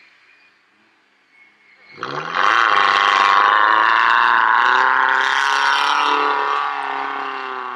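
Off-road 4x4's engine revving hard under heavy load while climbing a steep sand slope: about two seconds in the pitch shoots up and then holds high, easing slightly near the end.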